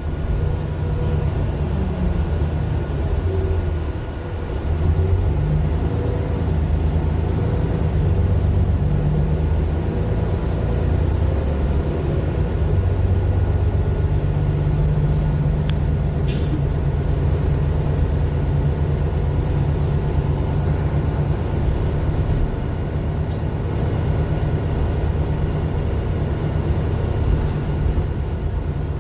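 Mercedes-Benz Citaro LE city bus with its Daimler OM 457 hLA six-cylinder diesel engine running. The engine sound dips briefly about four seconds in, then picks up and runs steadily, with a couple of faint clicks midway.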